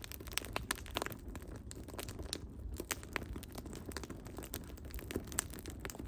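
Firewood burning with dense, irregular crackling and popping over a low rumble of flame.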